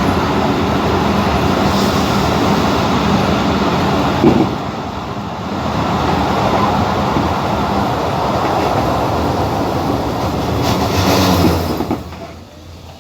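Abu Qir line passenger train running, heard from inside the carriage as a steady loud rumble and rattle. There is a knock about four seconds in, and the noise drops sharply about a second before the end.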